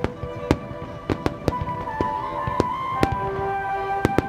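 Fireworks going off in a rapid, irregular series of sharp bangs: aerial shells and fan-shaped underwater fireworks bursting at the sea surface. Music with long held notes plays underneath.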